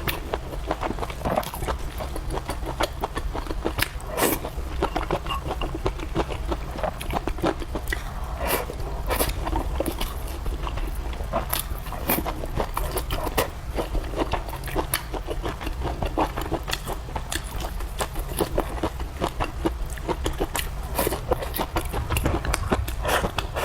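A person chewing and biting food close to the microphone, with frequent small clicks and smacks, over a steady low hum.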